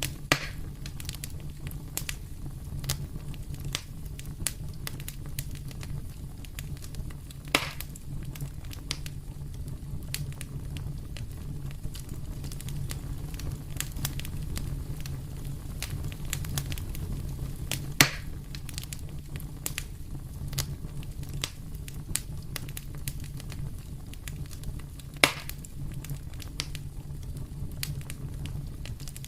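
Fire in a fireplace crackling steadily, with many small ticks and four louder sharp pops spread through, over a low, steady rumble.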